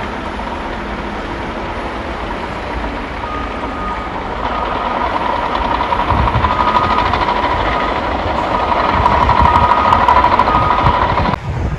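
Heavy vehicle running with a steady rumble and a backup alarm beeping over and over. It grows louder and cuts off suddenly just before the end.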